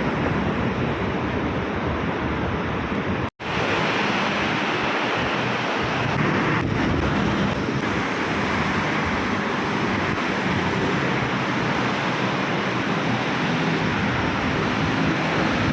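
Bangkok MRT Yellow Line rubber-tyred monorail train running at speed, a steady rumble and rush of running noise heard inside the car. The sound cuts out briefly about three seconds in.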